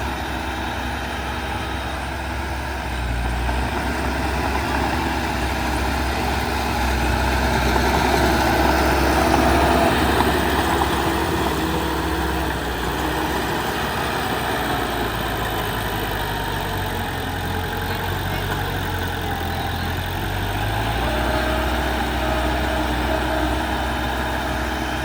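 Heavy construction machinery's diesel engine running steadily. It grows louder for a few seconds about a third of the way in, then settles back.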